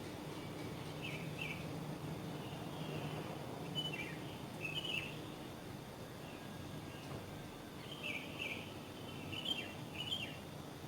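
Small birds chirping in short, scattered bursts, in clusters about a second in, around four to five seconds in, and again near the end, over a steady rush of wind.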